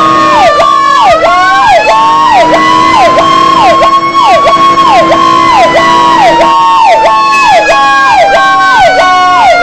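Fire truck sirens sounding loudly. An electronic siren repeats a quick held-then-falling note about twice a second, over a wailing siren whose pitch climbs about a second in and then slowly falls. A steady low tone runs underneath.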